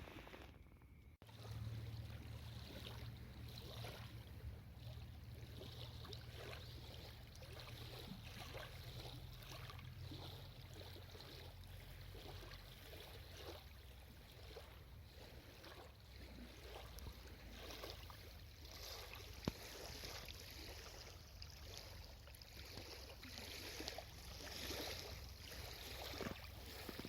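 Small waves lapping at a lakeshore in a series of soft, irregular splashes, over a low steady rumble of wind.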